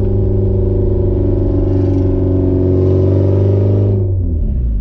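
Straight-piped Porsche 944 four-cylinder engine running loud under steady throttle while driving, its note holding nearly level, then the revs fall away about four seconds in before it settles on a new steady note.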